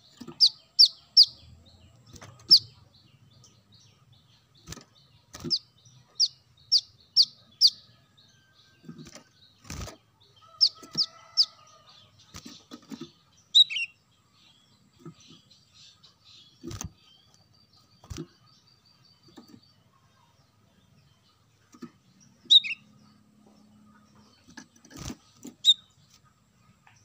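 Brown-throated sunbird (kolibri kelapa) calling: sharp, high, down-slurred chirps in quick runs of three to five, with pauses between runs and a few single lower falling notes. Scattered faint clicks come in between the calls.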